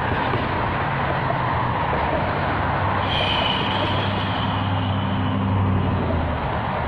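Steady road traffic noise, with a motor vehicle's engine hum passing close by about halfway through.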